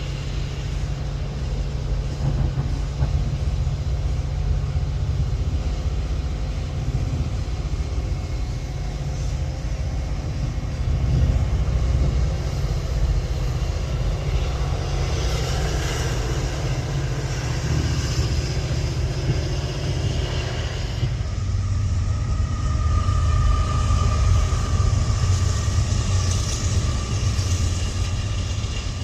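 Metra commuter train running with a continuous low rumble. About two-thirds of the way through, the sound changes abruptly and a steady high-pitched tone comes in over the rumble.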